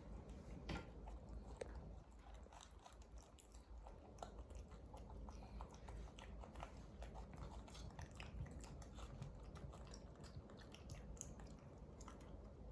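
Pet monkeys eating rice: faint chewing, with many small irregular clicks.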